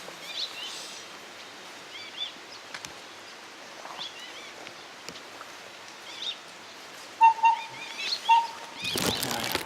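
Wild birds calling: short, arched high chirps come again and again, and a repeated lower note joins about seven seconds in. A brief, loud burst of noise comes shortly before the end.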